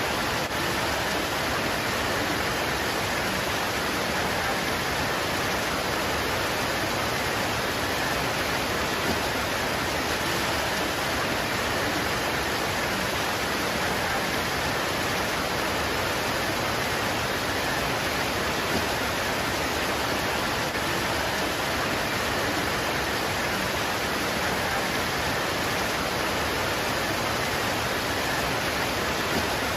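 Steady heavy rain pouring onto leaves, an even unbroken hiss.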